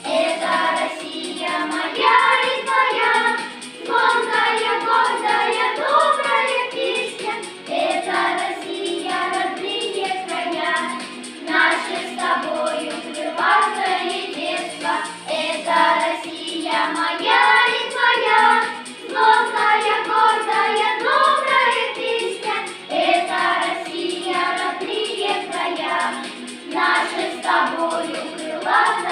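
A children's vocal group singing a song together in phrases, with music underneath.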